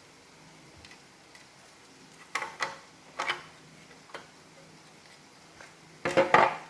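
Plastic parts of an iRobot Roomba robot vacuum clicking and knocking as they are handled and fitted together by hand. There are a few separate clicks in the middle and a louder quick cluster of clicks near the end.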